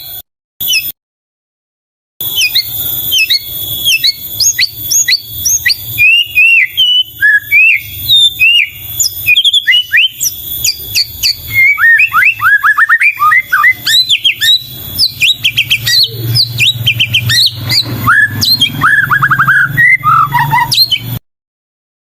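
White-rumped shama singing a fast, varied song of rapid whistles and chattering notes, with a low hum underneath in the second half. The song breaks off into dead silence twice, near the start and just before the end, where the recording is cut.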